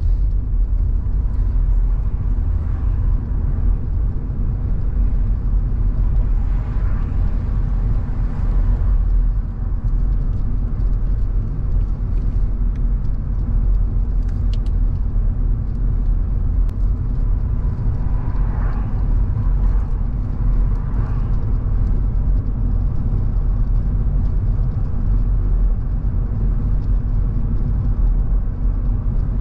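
A car driving at a steady speed: engine and tyre road noise form a continuous low rumble. Two brief swells of hissier noise come about a quarter of the way in and again past the middle.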